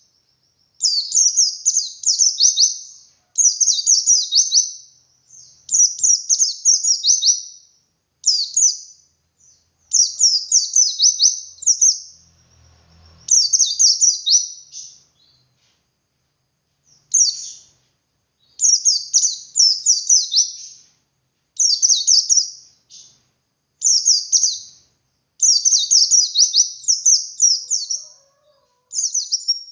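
White-eye (pleci) singing its 'ngalas' song: phrases of rapid, high-pitched twittering notes, each a second or two long, with short pauses between them and a longer break about halfway through.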